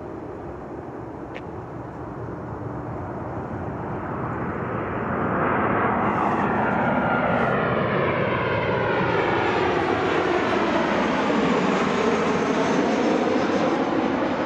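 Jet airliner's engines passing close by, a rushing roar that swells about five seconds in and stays loud, with a sweeping, phasing sound as the aircraft goes past.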